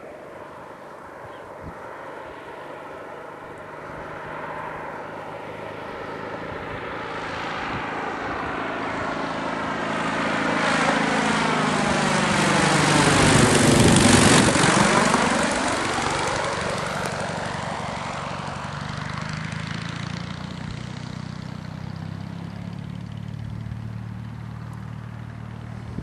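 Homebuilt ultralight aircraft making a low pass overhead: its engine and propeller grow steadily louder, peak about fourteen seconds in, drop in pitch as it goes by, then fade away.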